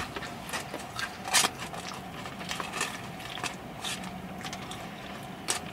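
Close-up chewing of crispy mini donuts: a string of small, irregular crunches and mouth clicks, the loudest about one and a half seconds in, over a faint steady hum.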